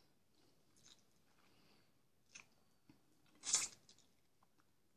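Close-up mouth sounds of someone eating kholodets (jellied meat aspic) from a fork: quiet, soft chewing with a few faint clicks, and one short, louder smack about three and a half seconds in.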